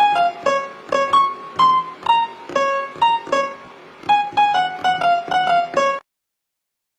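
A children's song intro melody played one note at a time on a keyboard with a piano-like tone, about two notes a second. It stops abruptly about six seconds in, leaving a brief silence.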